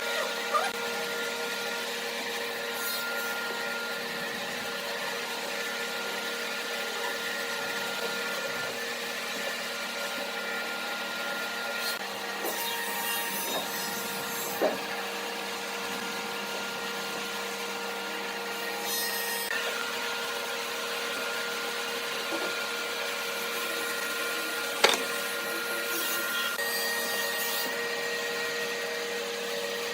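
An electric woodworking power tool running steadily, with a few short stretches of rubbing against wood and a few sharp knocks, the loudest about 25 seconds in.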